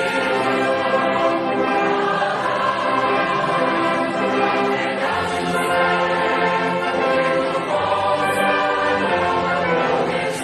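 Choral music with orchestral accompaniment: many voices holding sustained chords that change every second or two.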